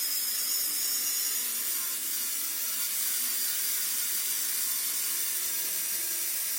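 Steady high hiss, even and unbroken, with no strokes or rhythm.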